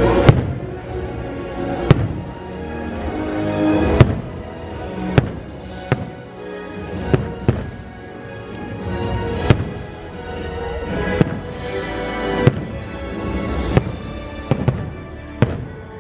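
Aerial fireworks shells bursting in the sky, about fourteen sharp bangs at irregular intervals, some in quick pairs near the end, over the show's music score playing steadily.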